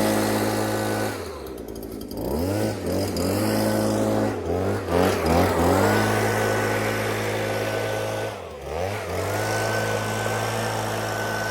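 Small petrol engine running steadily, its pitch dropping and climbing back several times as the throttle is eased off and opened again.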